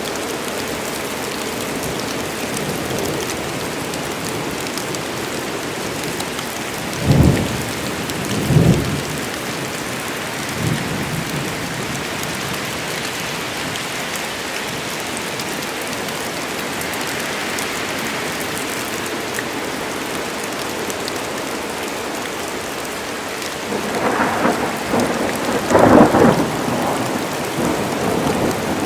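Thunderstorm: steady rain, with two short thunderclaps about a second and a half apart some seven seconds in, and a longer rumble of thunder near the end that is loudest a few seconds before it stops.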